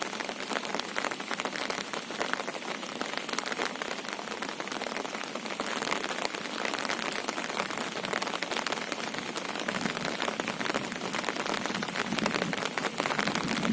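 Steady monsoon rain falling, a dense patter of drops, getting a little heavier in the last few seconds.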